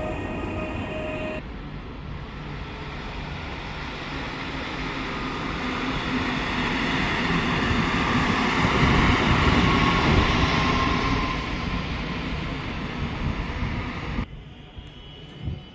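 A train passing through a station: rail and running noise building to a peak a little past the middle, then easing off, cut off suddenly near the end. It opens with a steady electric whine that stops abruptly about a second in.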